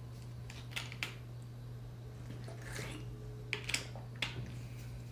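Quiet room tone with a steady low hum, broken by a few short soft clicks or taps, about five in all.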